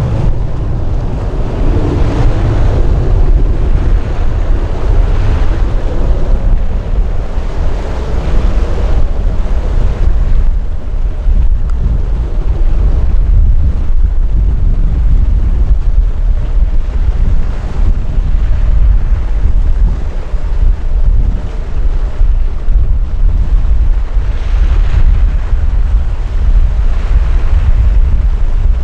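Wind buffeting the microphone: a loud, steady low rumble, with a broader rushing sound over it in the first several seconds that fades out.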